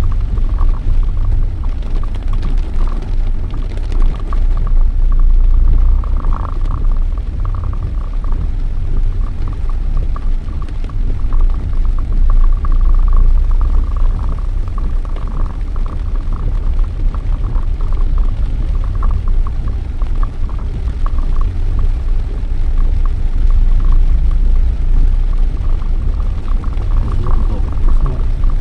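Steady low rumble of a car being driven, heard from inside the cabin: engine and road noise with no clear breaks.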